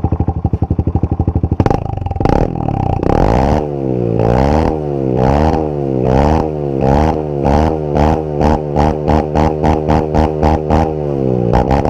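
Honda CRF125F dirt bike's single-cylinder four-stroke engine idling, then revved up and down over and over, the blips getting shorter and quicker before it drops back to idle near the end.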